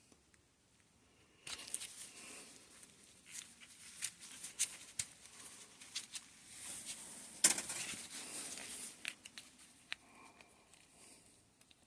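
Rustling and crinkling with scattered sharp clicks and taps: small bicycle fork parts being handled and set down on a workbench. It starts about a second and a half in, with the loudest click near the middle, and thins to a few ticks near the end.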